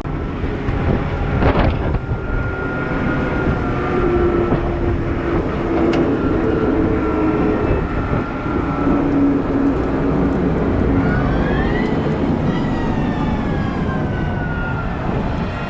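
Cat 972M XE wheel loader working: its diesel engine runs with a heavy low rumble while drivetrain and hydraulic whines rise and fall, one whine climbing steeply about eleven seconds in and then falling away slowly. A sharp knock comes about a second and a half in.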